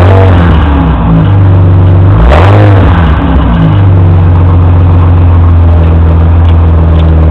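1993 Ford Thunderbird's exhaust, loud: the engine is blipped briefly near the start, revved up and back down about two seconds in, then settles to a steady idle.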